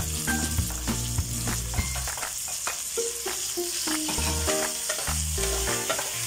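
Tomato wedges, onion and spices sizzling in hot oil in an aluminium wok while being stirred with a wooden spatula. Background music with a steady bass line plays over it.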